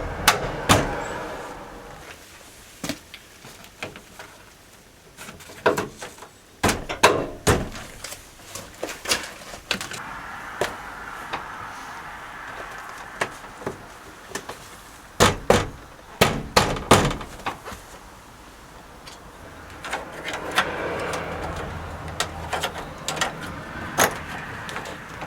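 Irregular clusters of sharp knocks and clicks from hands working on a van's door trim and fittings, such as the door card and speaker being pushed and fastened back into place.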